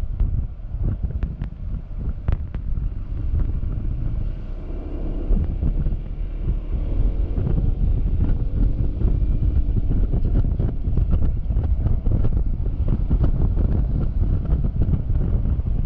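Wind buffeting the camera microphone on a Yamaha XMAX scooter moving at freeway speed: a loud, steady low rumble. The scooter's engine is faintly heard under it, with its pitch shifting in the middle.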